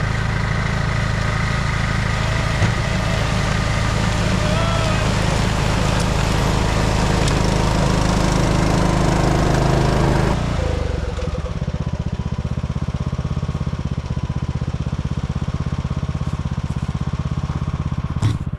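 John Deere lawn tractor's engine running under load with its snow blower attachment working. About ten seconds in the louder, fuller noise drops away, leaving the engine running at a lower, steady level.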